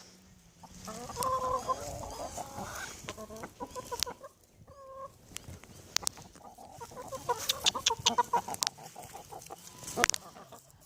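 Rooster and hens clucking over food, with a rapid run of short clucks in the second half and a few sharp clicks.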